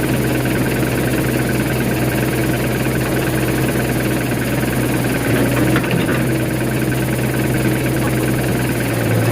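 Nissan BD30 four-cylinder diesel engine of a Hitachi EX60 backhoe running steadily with a low, even hum, now running after repair of its injection pump.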